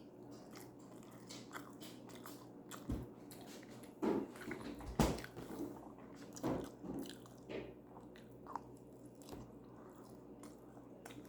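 A person biting and chewing food close to the microphone: irregular wet mouth smacks and crunches, the loudest about four and five seconds in.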